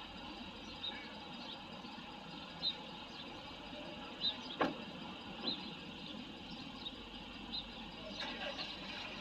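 Steady engine-like rumble, with short high chirps every second or so and one falling, whistle-like sweep about halfway through.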